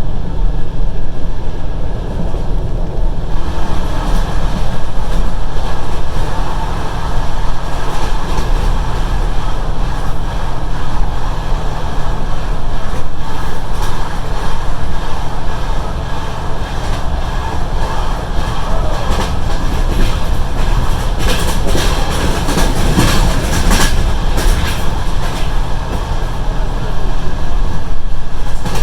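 Passenger train running at speed, heard from inside the carriage: a steady rumble with the clatter of wheels over rail joints, which grows denser and brighter for a few seconds past twenty seconds in.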